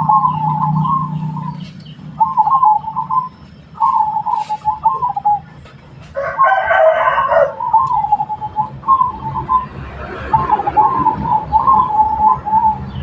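Zebra doves (perkutut) cooing: a string of short, warbling coo phrases, one after another every second or so. About halfway through, a louder, harsher bird call with many overtones breaks in for a second and a half.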